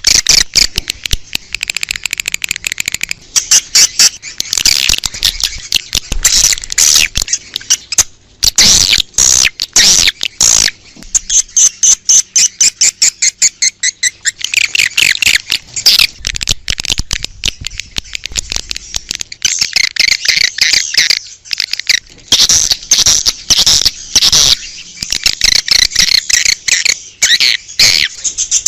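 Swiftlets chirping and twittering in a dense, continuous stream of rapid high calls with brief gaps: a swiftlet lure call.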